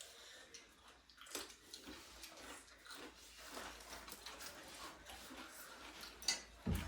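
Faint eating sounds: mouth chewing food, with scattered soft crunches and clicks, the sharpest about a second in and near the end.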